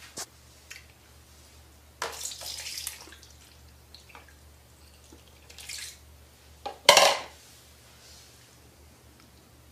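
Water splashing and sloshing in a small basin, with a few clicks and knocks against its sides. The splashes come in short separate bursts, the loudest a sharp splash about seven seconds in.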